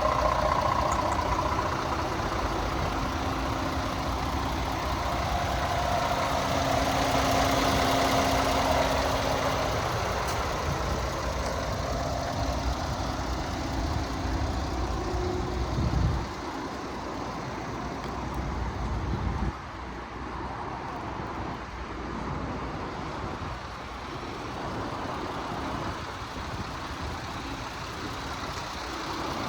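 Scania P370 tipper truck's diesel engine idling with a steady hum; the sound drops in level about sixteen seconds in and again just before twenty seconds.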